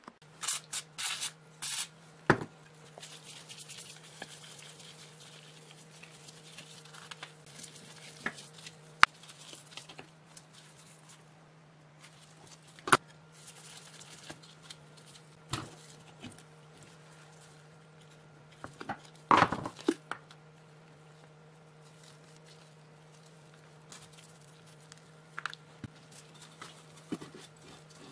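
Workshop work on metal parts: a few quick scraping strokes, a hiss, then scattered sharp knocks and clinks, the loudest cluster about two thirds of the way in, over a steady low hum.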